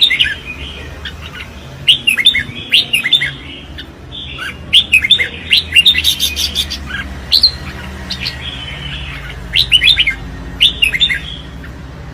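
Red-whiskered bulbul singing its contest song: clusters of quick, sliding whistled notes, each phrase lasting one to three seconds with short pauses between.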